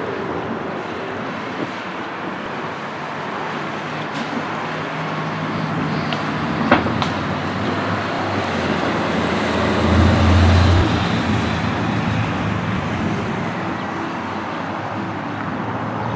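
Street traffic noise, with a vehicle passing loudest about ten seconds in. There is one short sharp click about seven seconds in.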